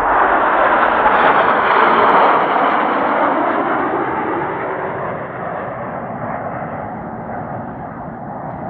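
Jet noise from Blue Impulse Kawasaki T-4 jets making a pass. The sound is loudest about a second or two in and then slowly fades away.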